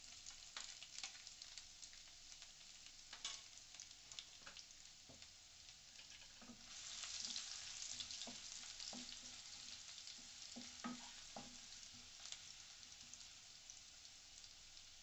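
Faint sizzling of chopped garlic, ginger and cumin seeds frying in hot mustard oil in a non-stick kadai, stirred with a wooden spatula that clicks and scrapes against the pan. The sizzle swells for a couple of seconds about seven seconds in.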